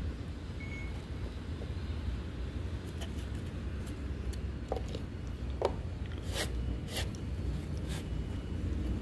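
Knife blade cutting and shaving wood: a handful of short, sharp scraping clicks about half a second to a second apart, over a steady low rumble.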